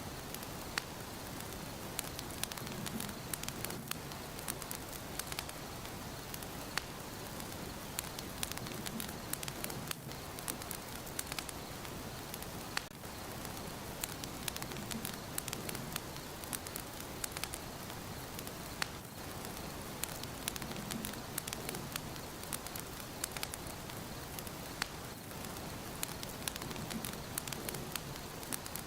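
Fire burning in a fireplace, crackling steadily, with frequent irregular sharp pops and snaps over a constant hiss.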